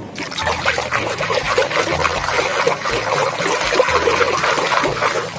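Water trickling and splashing with small bubbling sounds as a muddy plastic toy animal is washed clean.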